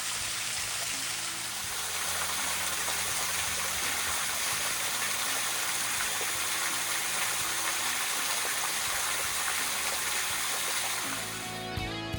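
Small waterfall, about 5 feet high, making a steady rush of falling water, with background music underneath; the water sound cuts off near the end, leaving only the music.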